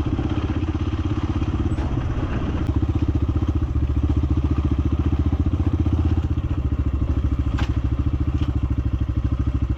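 Small single-cylinder motorcycle engine running steadily on the move, its exhaust pulses even, growing slightly louder in the middle.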